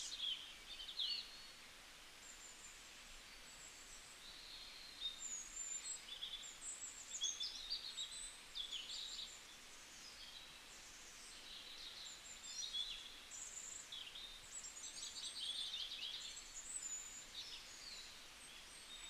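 Faint birdsong outdoors: several small birds chirping and twittering in short, high, quick calls, coming in clusters with quieter gaps between.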